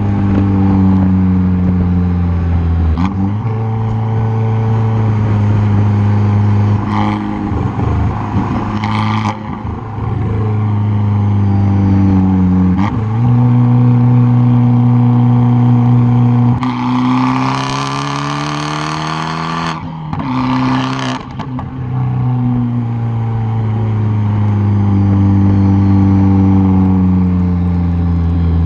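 Tuned 2013 Fiat 500 Abarth's turbocharged 1.4-litre four-cylinder exhaust, heard close at the rear bumper, pulling hard up through the revs with the pitch dropping at each gear change. Around the middle there is a longer, harder pull with a louder rushing noise over the engine note.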